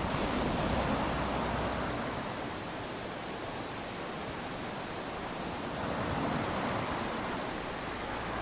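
Small waves lapping onto a sandy beach: a steady wash of surf that swells twice, near the start and again near the end, as each wave runs up the sand.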